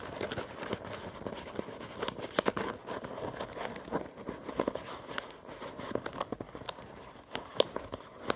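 A sheet of A5 copy paper being handled and folded, with irregular crinkles and light taps as a paper flap is curled and tucked into a widened slot.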